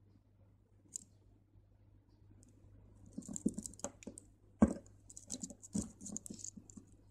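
Small crystal beads clicking and ticking against each other as they are handled and the beading thread is pulled through them. The clicking starts about three seconds in, with one sharper click a little after.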